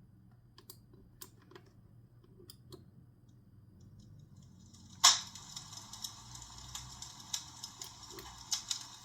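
Faint scattered clicks, then about five seconds in a small speaker starts playing a recorded wood-fire crackle: a steady hiss with quick irregular snaps and pops, thin and without low end.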